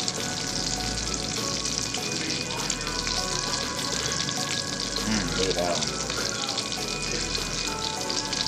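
Flour-dredged rabbit pieces sizzling and crackling as they fry in hot fat in a ceramic-coated skillet, with more pieces being laid into the pan.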